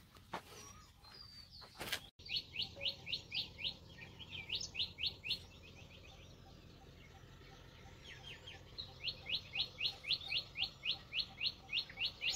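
Birds calling, one repeating a short, sharp, sweeping note about four times a second in two long runs.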